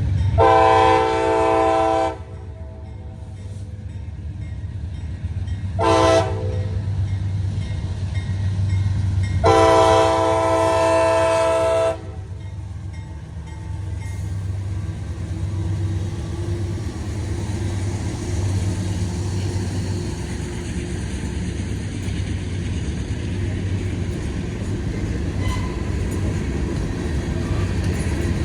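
A CSX diesel freight locomotive's multi-note air horn sounds a long blast, a short one and another long one. Under the horn runs the low rumble of the diesel locomotives, and after it the steady rumble of the passing freight train carries on.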